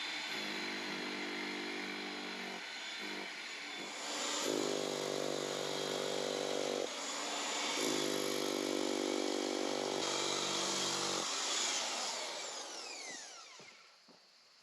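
Electric SDS breaker hammer chiselling into soft, layered slaty ground, running in three bursts of a few seconds each. Near the end its motor winds down with a falling whine.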